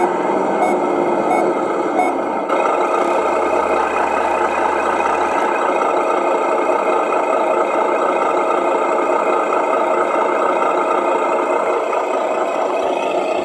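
A radio-controlled truck's electronic sound unit playing a reversing beeper over its simulated truck diesel engine sound. The beeps repeat about every 0.7 seconds and stop about two and a half seconds in, leaving the steady engine sound.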